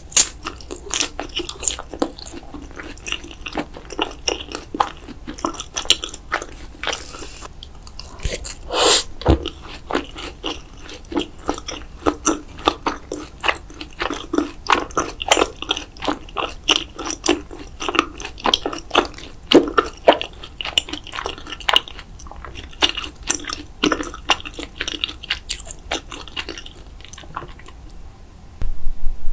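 A person chewing and biting food close to the microphone, with a quick run of wet mouth clicks and crunches that thins out near the end.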